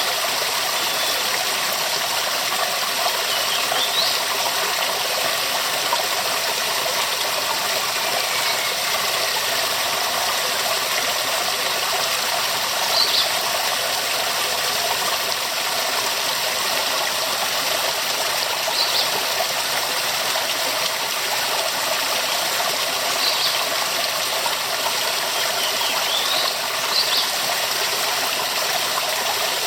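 Waterfall rushing steadily, a dense unbroken roar of falling water, with a few faint short high chirps from time to time.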